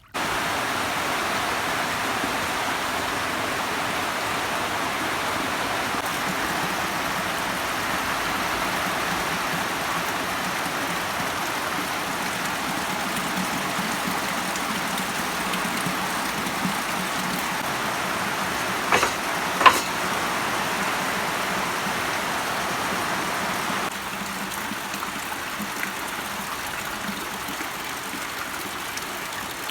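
Steady rush of flowing floodwater, a little quieter for the last few seconds. A couple of brief sharp sounds stand out about two-thirds of the way through.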